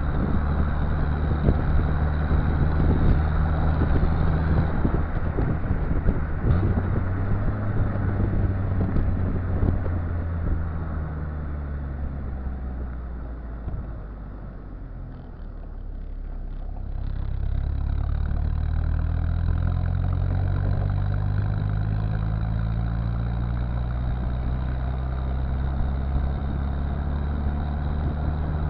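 Exhaust note of a Citroën Visa's swapped-in XUD7TE four-cylinder turbo-diesel, running steadily. It drops quieter in the middle, then comes back with the pitch slowly climbing before settling again.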